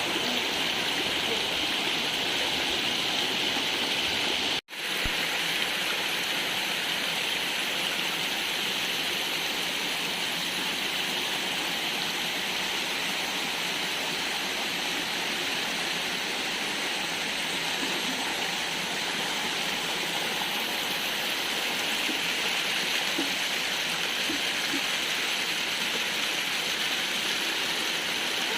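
Steady rushing water of a stream, an even hiss with no pauses except an instant's dropout about five seconds in.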